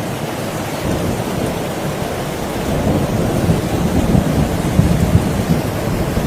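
Heavy rain falling steadily, a dense close pattering of drops, heavy in the low end.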